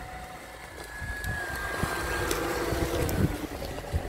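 Lada Niva's engine running as it drives along a rough dirt track, growing louder about a second in, with scattered low thumps and a few sharp clicks.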